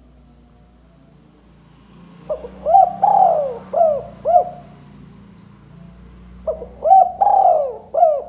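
Spotted dove (tekukur) cooing: two calls, each a short note, then a longer drawn-out coo, then two short coos. The first call starts a little over two seconds in; the second starts about six and a half seconds in and runs on past the end.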